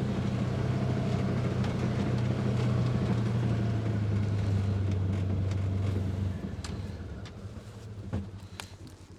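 A vehicle engine running steadily, then stopping about six seconds in. A sharp knock follows near the end.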